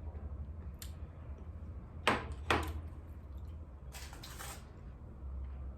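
Two sharp knocks about half a second apart, then a brief rustling scrape, as objects are handled on a table, over a steady low hum.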